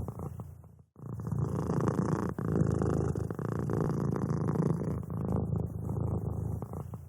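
A domestic cat purring steadily. The purr fades out and breaks off briefly about a second in, then starts again.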